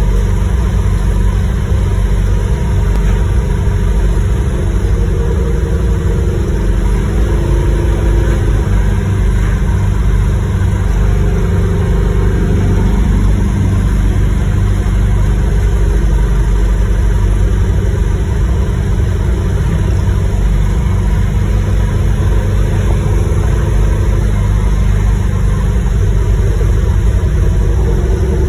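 Chevy 350 small-block V8 in a 1971 Chevy Nova, built to make 505 hp on pump gas, cruising steadily at highway speed, heard from inside the cabin. A loud, steady low engine rumble with road noise and no changes in revs.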